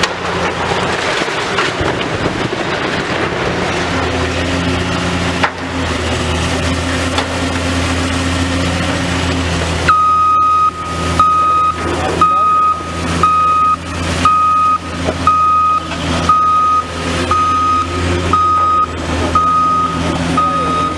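Heavy demolition machine's diesel engine running steadily. About halfway through, a reversing alarm starts beeping about once a second.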